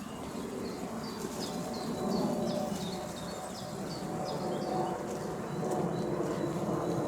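A songbird singing a run of about a dozen short, quick down-slurred notes, about three a second. The song begins about a second in and stops about five seconds in, over steady outdoor background noise.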